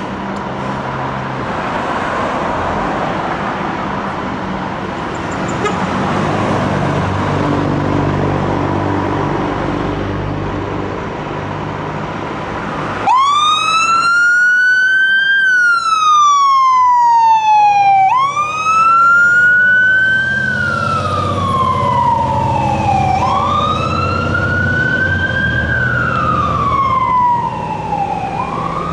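Fire engine's diesel engine running with a steady rumble that builds. About halfway through, its siren switches on abruptly and wails, sweeping up quickly and falling slowly, repeating every few seconds.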